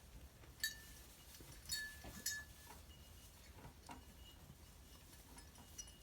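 Small bell worn by a sheep, clinking three times as the animal moves: once about half a second in, then twice close together around two seconds, each strike ringing briefly.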